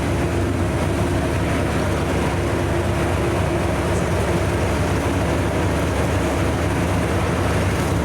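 Diesel locomotive engine running at a steady, unchanging note.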